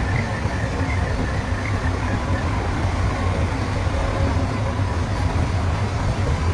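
Heavy earthmoving machinery running steadily: a continuous low diesel engine rumble with no pauses or knocks.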